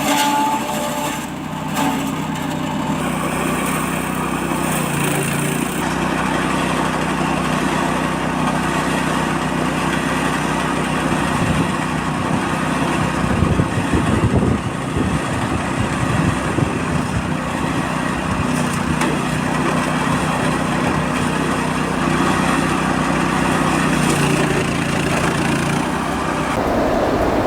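Small 7-horsepower petrol engine of a garden chipper-shredder running steadily, with a rougher, uneven stretch about halfway through.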